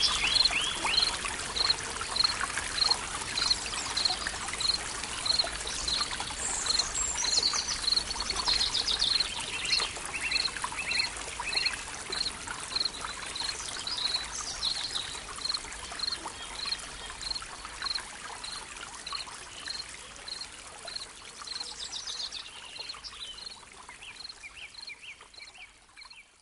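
Forest ambience of running water with birds calling: one bird repeats a short high note about twice a second throughout, and other birds break in with brief trilled phrases. The whole thing fades out near the end.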